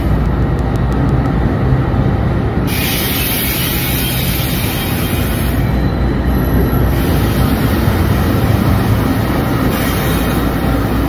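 Union Pacific diesel locomotives passing close by, engines running and wheels rolling over the rails, a steady loud noise throughout.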